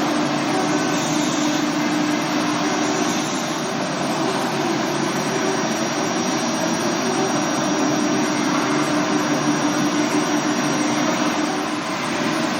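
Okuma GENOS M660-V vertical machining center running: a steady whir and hiss with a thin, high, steady whine, unchanging in pitch.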